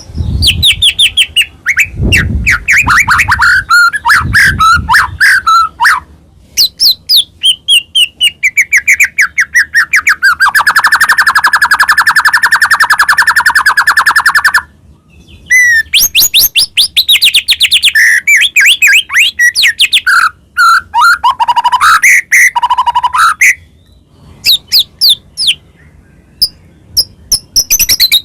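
White-rumped shama (murai batu) singing loudly in full song: rapid chattering phrases and falling trills, with a long buzzing rattle lasting about four seconds in the middle. A few low thuds sound in the first five seconds.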